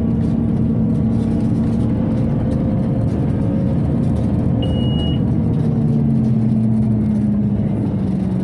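Cabin sound of a Scania OmniCity city bus under way: the diesel drivetrain and the ventilation run steadily, with the engine note shifting a little partway through. A short high beep sounds about halfway in.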